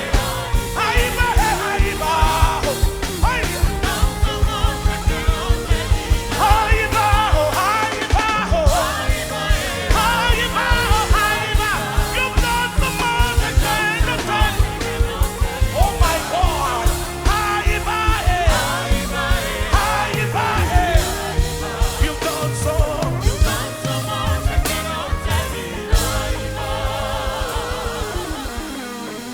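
Gospel praise music: a singer's voice over a band with a steady drum beat. The music thins out and gets quieter near the end.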